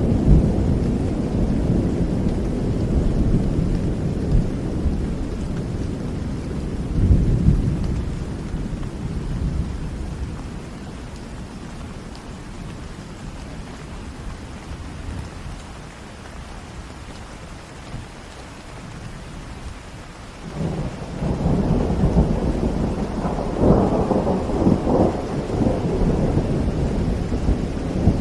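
Rain falling with rolling thunder. A low rumble fades away over the first ten seconds, then a new roll of thunder breaks in suddenly about twenty seconds in, with several cracks within it.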